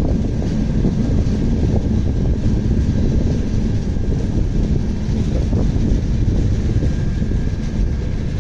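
Steady low rumble of a moving vehicle, with constant small rattles; a faint thin whistle comes in toward the end.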